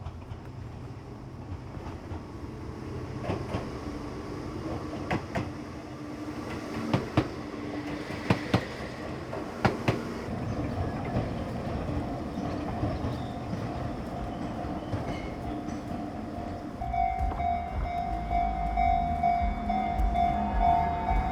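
Train running on rails: wheels clicking over rail joints, then a steady whine that comes in and grows louder toward the end.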